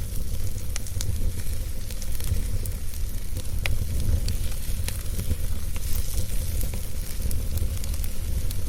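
Wood fire crackling in a fireplace: scattered sharp snaps and pops over a steady low rumble.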